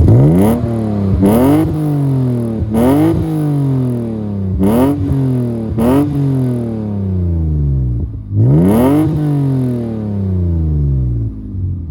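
1999 BMW E36 M3's 3.2-litre straight-six, fitted with a Dinan cold air intake, being revved: six sharp climbs in pitch, each falling away more slowly, then settling back toward idle near the end.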